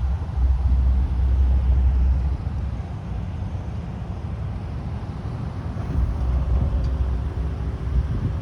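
Road traffic: vehicle engines passing as a low rumble that swells twice, once near the start and again near the end.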